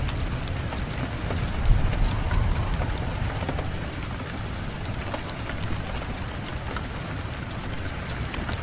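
Fireplace fire crackling with frequent small pops over a steady low rumble of wind, with one louder pop about two seconds in.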